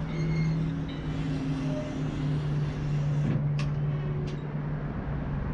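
A steady low mechanical hum from a running motor or engine, with two sharp clicks a little after halfway.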